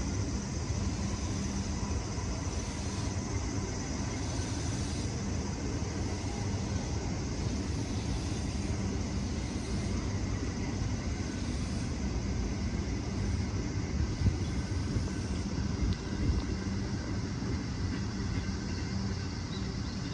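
Steady low rumble of a JR Kobe Line electric train at the station, mixed with storm wind and rain noise.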